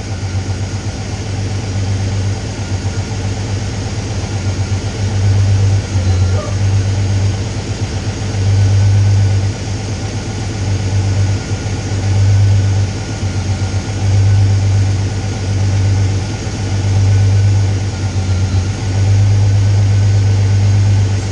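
Twin-turbo V engine in an MG Midget idling on its first startup, the low drone uneven, swelling and dipping every second or two. The turbos are barely spooling at this idle.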